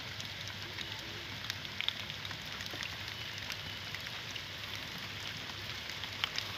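Steady rain falling on a pond's surface: an even hiss with scattered sharper ticks of single drops.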